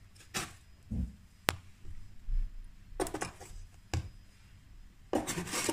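Risen brioche dough being cut into portions on the work surface: a few separate knocks and clicks of the cutting tool against the board, a low thud about a second in, and a louder scraping rustle near the end.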